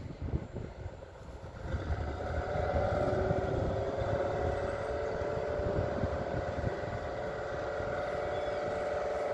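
An engine running over a low rumble, getting louder about two seconds in and then holding a steady pitch.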